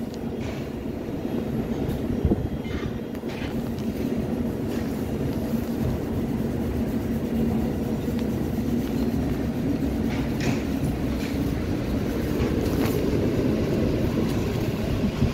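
Passenger train carriages departing and rolling past, a steady low rumble of wheels and running gear that grows a little louder, with a few faint clicks.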